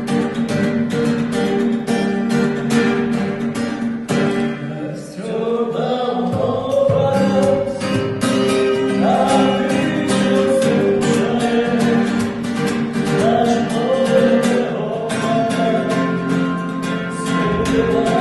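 Gypsy-style song with rhythmically strummed acoustic guitar and singing. The guitar plays alone at first, and the voice comes in about five seconds in.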